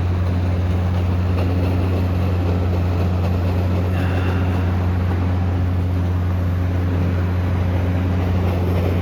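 A steady low machine hum, like an idling engine, with a haze of noise over it and no change in level.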